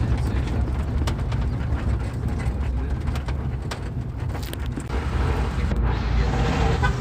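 Motor vehicle running: a steady low rumble of engine and road noise, with scattered light clicks and knocks.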